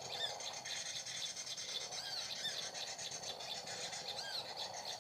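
Small birds chirping: short, arched high notes in little groups of two or three, a few times over, against a steady background hiss and hum.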